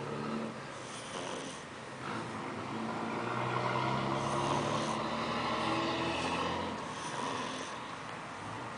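Pug snoring in its sleep, with a longer, louder snore through the middle.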